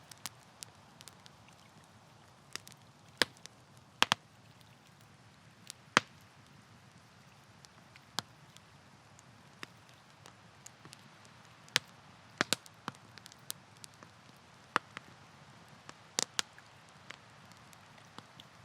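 Campfire wood crackling, with irregular sharp pops, a handful of them loud, over a faint steady hiss.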